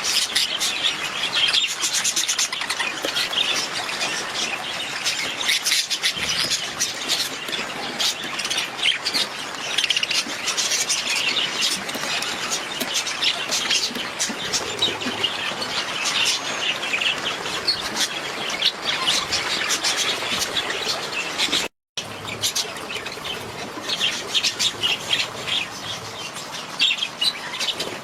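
Budgies (budgerigars) chattering and chirping continuously, many quick overlapping chirps and warbles, with one momentary break about three quarters of the way through.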